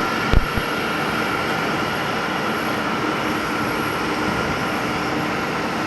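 Steady jet aircraft noise on an airport apron, with a steady high whine running through it. A brief knock comes about a third of a second in.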